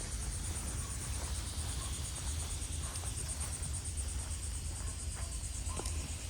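An insect trilling: a high, fast-pulsing buzz that goes on steadily, over a low steady rumble.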